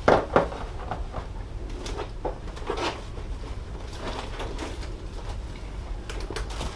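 Irregular knocks and scrapes: two sharp knocks near the start, then softer clicks and rustling.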